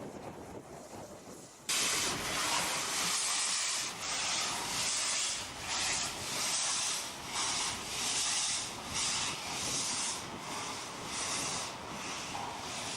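Steam locomotive hissing steam in rhythmic puffs at walking pace, about one a second, as it arrives slowly; the hiss starts abruptly about two seconds in.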